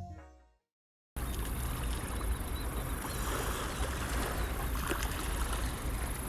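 Closing music fades out in the first half second; after a brief dead silence, a steady wash of river water and wind noise with a low rumble takes over.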